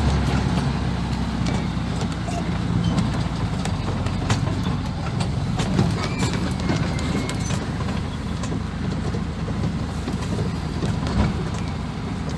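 1980 Land Rover Series III engine running steadily at low speed as it drives down and up a rough 4x4 track, with scattered knocks and rattles over the bumps.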